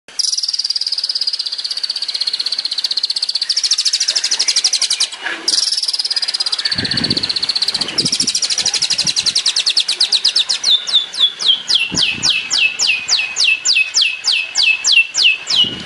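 Long-tailed shrike (cendet) singing a fast, high trill with a brief break about five seconds in. From about ten seconds it changes to a rapid series of sharply falling notes, about four a second, the quick-fire 'tembakan' phrasing prized in songbird training recordings.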